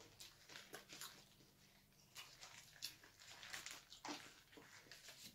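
Faint chewing and mouth sounds of people eating fried chicken and burgers: a string of soft, irregular clicks and smacks.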